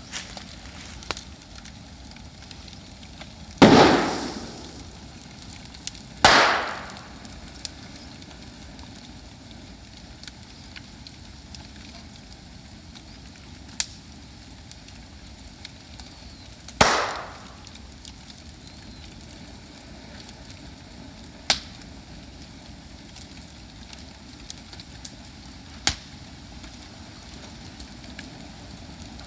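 Moso bamboo burning in a bonfire, going off with three loud bangs as sealed sections of the culm burst, plus several smaller sharp pops over the steady noise of the fire.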